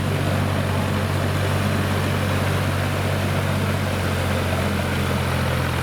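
Kubota M5000 tractor's diesel engine running at a steady speed, an even low hum that holds the same pitch throughout.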